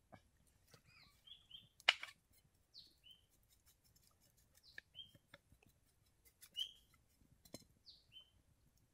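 Forest birds chirping: short, high notes sliding downward, repeated every second or two. Scattered clicks and snaps run underneath, the loudest a sharp snap about two seconds in.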